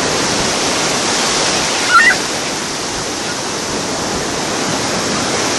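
Ocean surf rushing steadily, with a brief high-pitched cry about two seconds in.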